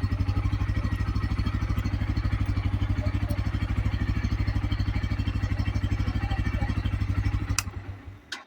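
Bajaj Pulsar N160's single-cylinder engine idling with an even, rapid beat, then switched off near the end: a click, the engine runs down and stops, and another click follows.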